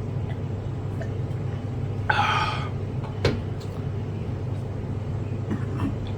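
A short vocal sound from the man, about half a second long, comes about two seconds in over a steady low hum. A single sharp click follows about a second later, then a few faint ones.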